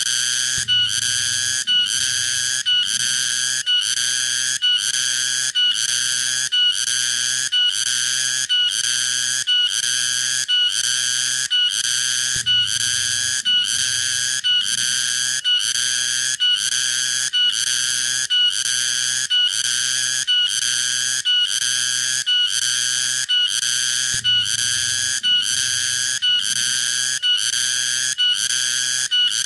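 Tonggeret cicada calling: a shrill, rhythmic pulsing buzz, about three pulses every two seconds, repeating evenly.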